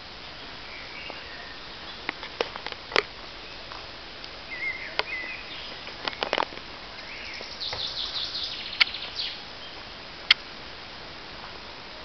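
Small birds chirping now and then in woodland, with a short fast run of high notes near the middle, over a steady background hiss. A handful of sharp clicks cut through, the loudest near the end.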